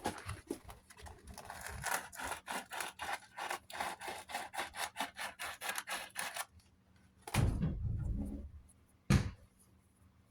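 Hand sanding of a rough, scratched part of a box fan motor: sandpaper scrubbed back and forth in quick even strokes, about four to five a second, for several seconds, to smooth the scratches. Near the end come a dull thud and then a sharp knock as the part is handled.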